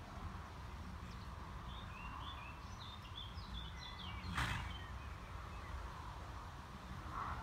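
Outdoor ambience with a steady low rumble, and a small songbird singing a quick run of short chirps a couple of seconds in. About halfway through there is one brief burst of noise.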